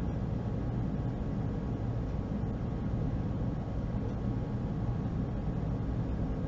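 Steady low rumbling background noise with a faint hum, unchanging throughout, with no distinct sounds.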